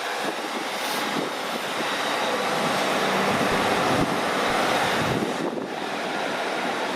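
A train moving through the station: a steady, loud rushing noise that swells a little mid-way and dips briefly near the end, with wind on the microphone.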